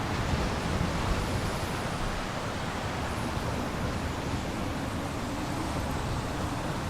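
Strong storm wind with waves on a large lake, a steady rushing roar with no letup.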